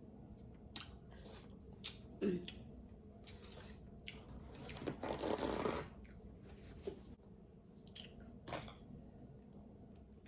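King crab legs being cracked, broken and eaten: sharp shell snaps and clicks scattered through, with a longer, louder stretch of crunching about five seconds in, and chewing.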